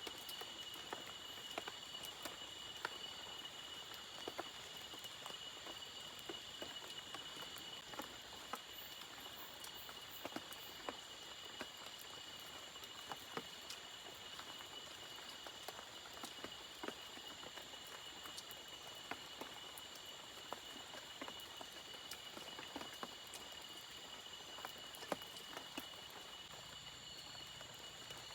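Insects, crickets among them, chirring steadily in a few high, unchanging tones, with irregular small ticks and taps scattered through.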